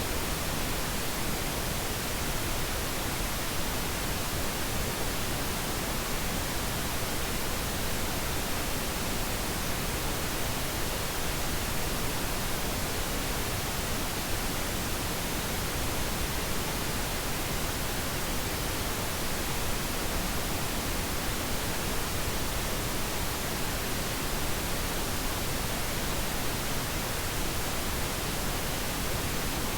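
Steady pink noise: an even, featureless hiss spread across all pitches that does not change.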